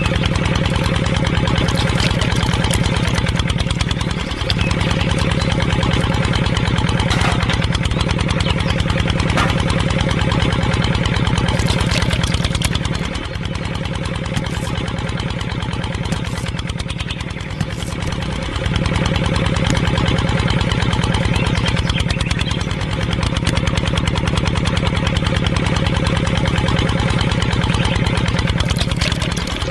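A small engine-like motor running steadily with a fast, even pulse, dipping briefly now and then.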